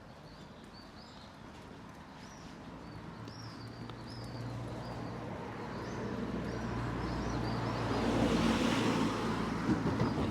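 A car approaching and passing close by, its engine hum and tyre noise growing steadily louder to a peak about eight or nine seconds in, then starting to fade. Small birds chirp throughout.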